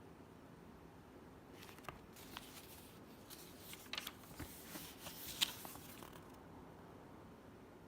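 Faint rustling with a few sharp clicks, as of small objects being handled, for about five seconds. The loudest click comes about five seconds in. No vacuum motor is running.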